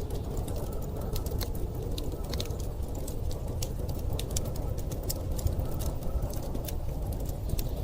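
Wood fire crackling, with many sharp irregular pops and snaps, over a steady low rumble of blizzard wind.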